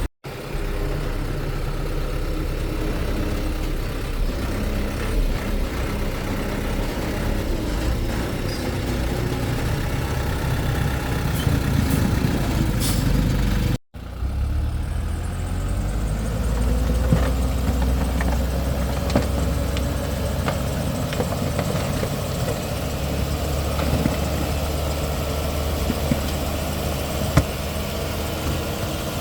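Heavy construction machinery's diesel engine running steadily, with scattered small clanks. The sound drops out briefly twice at cuts in the video.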